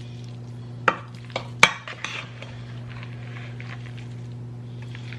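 Big serving spoons clinking and scraping in a mixing bowl as mayonnaise is stirred into shredded chicken, peas and carrots, with two sharp clinks about a second in and softer scraping after, over a steady low hum.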